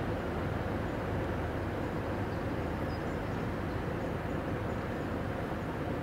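Freight train of car-carrier and covered wagons rolling past across the river: a steady rumble of wheels on rails.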